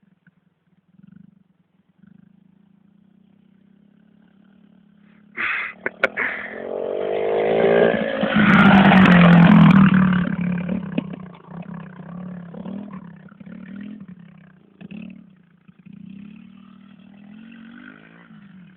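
Pit bike engine idling, then revved hard about five seconds in, climbing in pitch and loudest a few seconds later before easing back to an uneven lower run.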